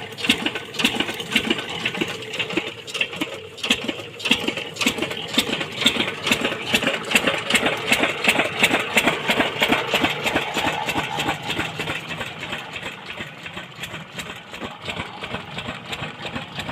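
Engine running steadily with an even, rapid beat of several pulses a second, easing a little in the last few seconds.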